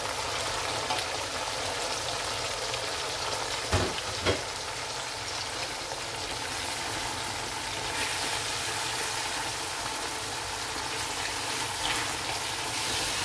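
Sliced onions and halved tomatoes sizzling in hot oil in an aluminium karahi, a steady frying hiss. Two sharp knocks come about four seconds in, and a wooden spoon stirs near the end.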